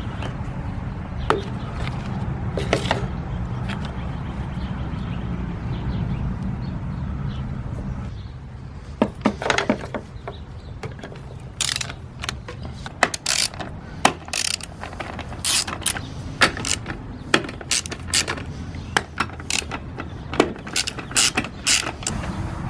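Hand tools working on a lawn mower during a carburetor swap: irregular sharp metal clicks and taps, thickening from about a third of the way in. Under them runs a steady low mechanical hum.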